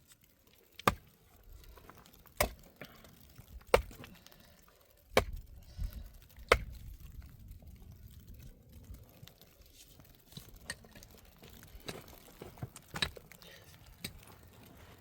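Five sharp chopping strikes, one about every second and a half, followed by fainter clicks and knocks.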